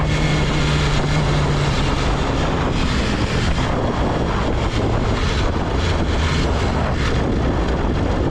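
A BMW S1000RR's 999 cc inline-four engine running under way, mixed with a steady rush of wind noise; the engine note drops lower about two seconds in.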